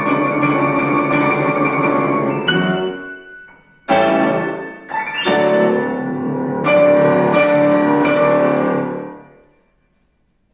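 Piano playing sustained chords, then a series of loud struck chords that ring and die away to silence about ten seconds in, the close of a piece.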